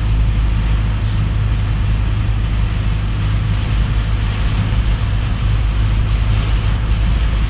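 Heavy typhoon rain pouring down steadily, a continuous rushing hiss over a deep low rumble.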